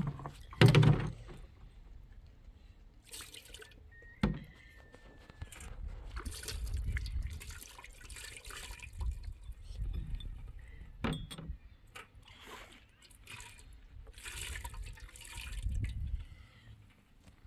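Water sloshing and splashing in irregular bursts, with a louder splash about a second in and a sharp knock about four seconds in.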